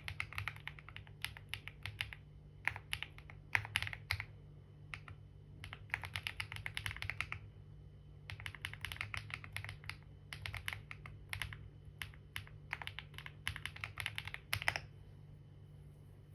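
Typing on a computer keyboard: rapid keystrokes in bursts of a second or two with short pauses between, stopping about a second and a half before the end.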